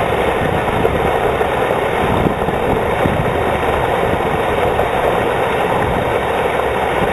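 Water rushing through a large storm drain, a loud, steady rush.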